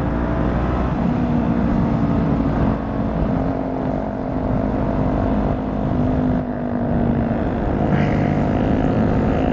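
Motorcycle engine running at a steady cruising speed, its note holding level, under heavy wind and road noise on the rider's microphone. The note shifts briefly about six and a half seconds in.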